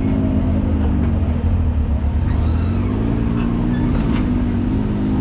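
Off-road side-by-side engine running as the machine drives the trail, its pitch easing down about two seconds in and climbing back, over a heavy low rumble.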